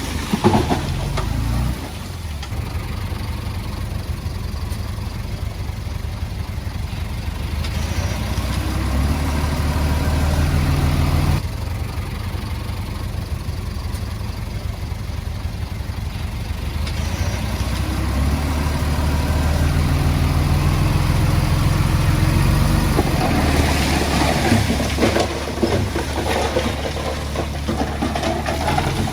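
Bulldozer diesel engine working, its note rising and falling back as the load comes and goes. A rougher spell of clattering and scraping noise comes about two-thirds of the way through.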